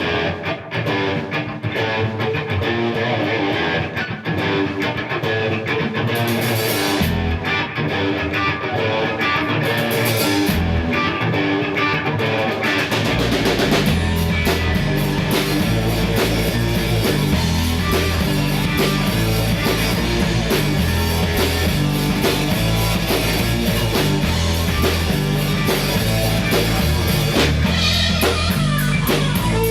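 Three-piece rock band playing live, electric guitar driven by a Marshall stack, recorded with a single microphone in the middle of the room. The opening is lighter, and bass and drums come in heavily about 13 seconds in.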